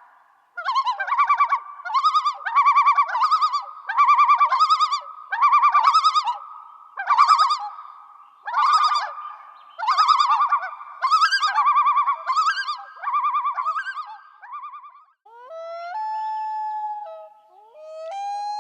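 An animal calling: a series of about eleven short bursts of rapid warbling notes, then longer steady calls near the end.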